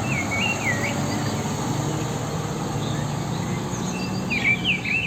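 Steady outdoor background noise with a low hum, and a bird's short warbling chirps twice: once at the start and again near the end.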